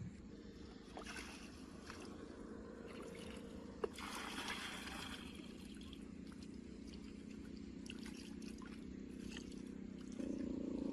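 Water trickling and splashing, with the restored pump's small four-stroke engine running quietly underneath, a few light clicks, and a louder low engine sound coming in near the end.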